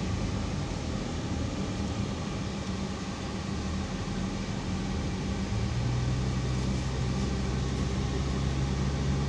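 Steady motor vehicle noise: a constant low engine hum over road noise, growing louder and deeper about five and a half seconds in.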